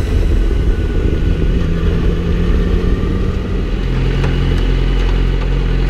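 Yamaha R6's inline-four engine running while the bike is ridden, then, from about three and a half seconds in, idling steadily at a standstill.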